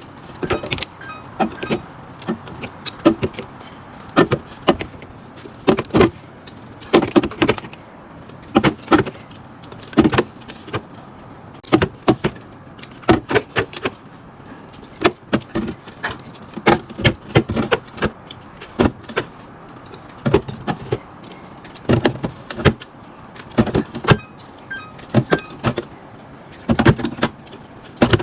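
Small plastic Yakult bottles and packs handled and set down one after another while a fridge is restocked: irregular light clicks, taps and clatters, about one or two a second.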